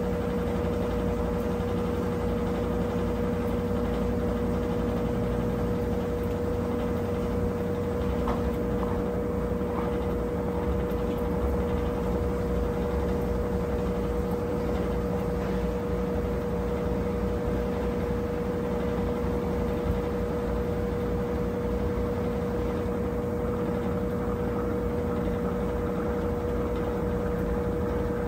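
Brastemp 17 kg washing machine running steadily: a constant low hum with a single steady whine above it.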